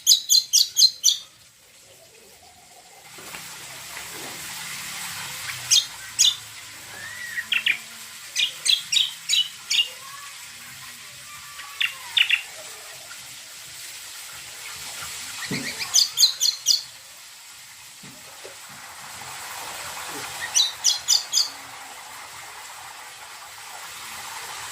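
Cucak kombo songbird calling in short series of four to six sharp, rapid high chirps, repeated every few seconds, with a few softer, lower whistled notes in between. A steady hiss runs underneath.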